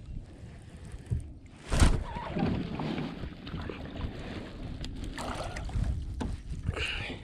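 Sounds of fishing from a kayak: a sharp knock about two seconds in, then uneven rustling and water noise around the boat.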